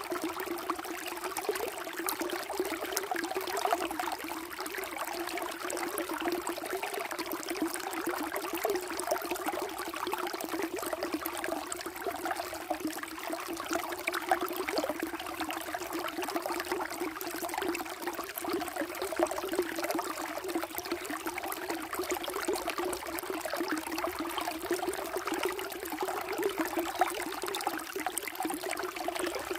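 Water flowing and trickling in a steady stream, with a constant burbling.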